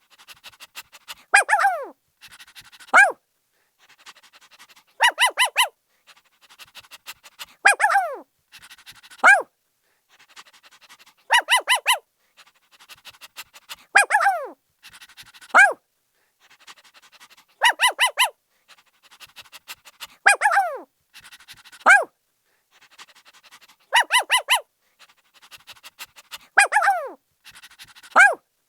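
A puppy barking in high, short yips. Each group is a quick run of three or four yips, a longer yelp that falls in pitch, and a single short yip. The same pattern repeats about every six seconds, as a loop, with softer rapid sounds between the groups.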